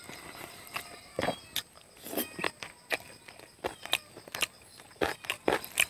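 Close-miked mouth sounds of eating boiled chicken: chewing and lip smacking, a string of short wet clicks and smacks at an irregular pace of about two a second.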